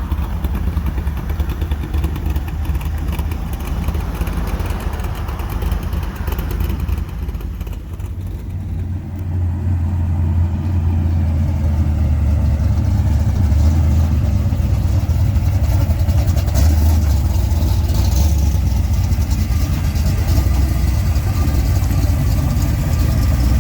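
A motor vehicle's engine running close by, a steady low rumble that grows louder about ten seconds in.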